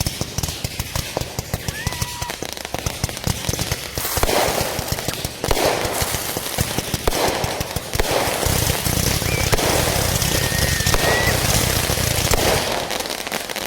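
Neighbourhood fireworks: rapid strings of firecracker pops and crackling set off in quick succession, getting louder about four seconds in.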